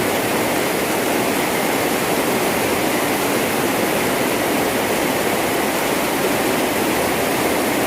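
Heavy rain pouring steadily, an even rushing hiss.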